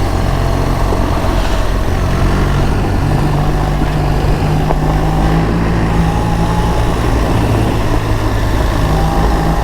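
BMW R 1300 GS's boxer-twin engine running steadily at low trail speed, its pitch shifting a little, under an even rush of wind and tyre noise.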